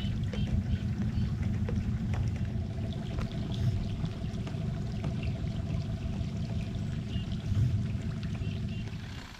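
A boat's motor running steadily as a low rumble, with water sounds around the hull.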